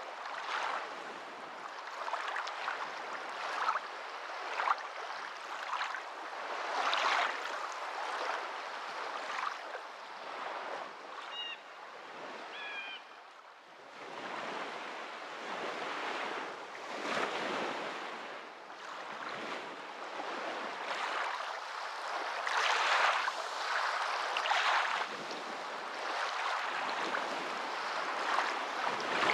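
Water rushing and splashing in uneven surges, rising and falling every second or two. A few faint high chirps come about halfway through.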